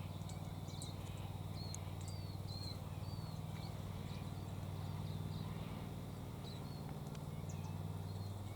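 A steady low hum with faint, short, high chirps of small birds scattered through it, a few every second or two.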